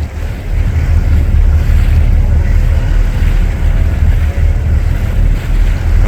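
Wind buffeting the microphone in a loud, uneven low rumble, with a hiss of wind and water over it.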